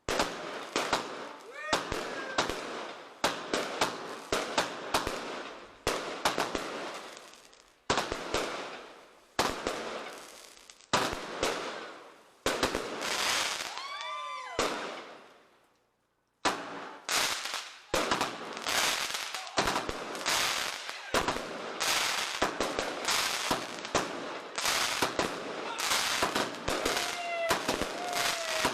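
Fireworks going off in quick succession: sharp bangs of bursting shells with crackle between them, and a few whistles gliding in pitch about halfway through and again near the end.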